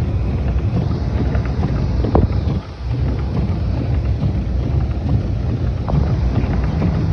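Low steady rumble of a vehicle moving through snow, with wind noise on the microphone; the rumble dips briefly a little under three seconds in.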